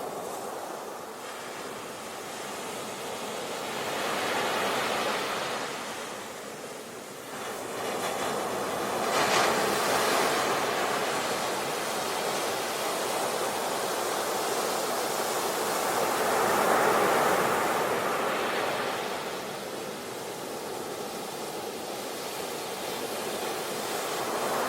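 A steady rushing noise, with no music or voices, that swells and ebbs every few seconds.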